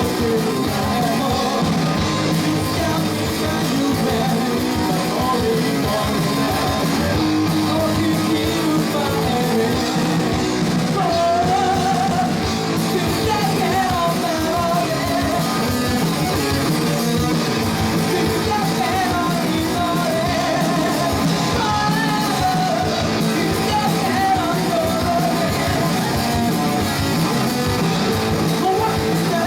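Rock music with a singing voice, played without a break at a steady loud level.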